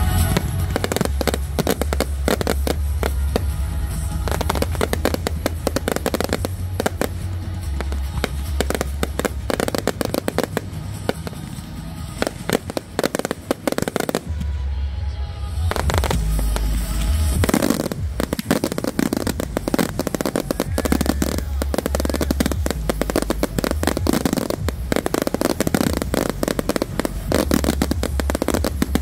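Fireworks display: a rapid barrage of bangs and crackling, with a short lull about halfway through, over music with a steady bass line.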